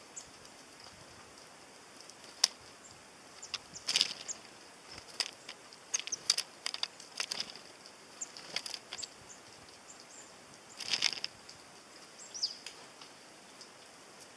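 Tits at a sunflower-seed feeder: irregular sharp taps and knocks from birds landing and pecking at seeds, with brief flutters of wings and a few thin high calls. The busiest bursts come about four seconds in, between six and seven and a half seconds, and near eleven seconds.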